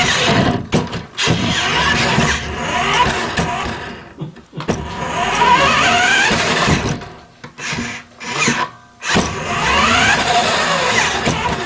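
A 1/8-scale RC Silverado truck's motor running in bursts: a whine that rises in pitch with each burst of throttle, broken by short pauses.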